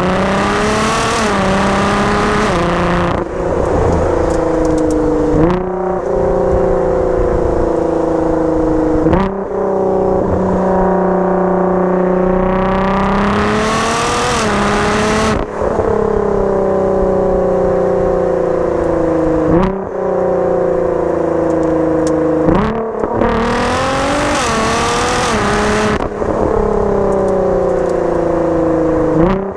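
Tuned Nissan GT-R's twin-turbo V6 with a full exhaust, driven through repeated hard pulls. Revs climb, drop sharply at each gear change, and sink slowly between pulls. The three loudest full-throttle bursts come near the start, about halfway through, and about three-quarters of the way in.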